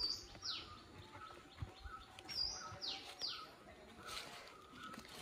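Birds calling: a string of high whistled notes, each sliding sharply downward, several within a few seconds, over a lower, shorter repeated chirp.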